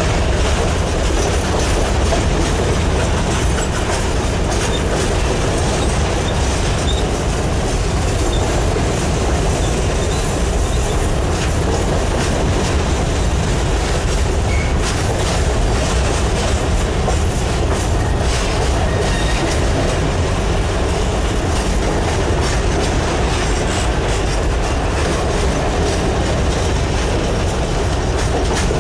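Coal hopper cars of a freight train rolling past at steady speed: a continuous rumble with the clatter of steel wheels on the rails.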